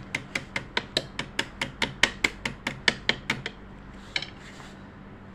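Rapid, evenly spaced metallic taps, about five a second, on a Butterfly sewing machine's feed-dog mechanism as it is being lowered, stopping after about three and a half seconds with a few scattered clicks after.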